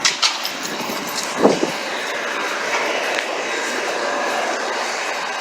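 Steady outdoor vehicle noise, with a few sharp clicks at the start and a brief loud sound with a falling pitch about a second and a half in.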